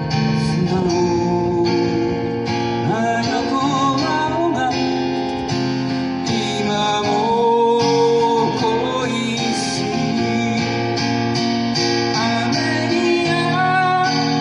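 Acoustic guitar strumming with a voice singing the melody of a folk song cover.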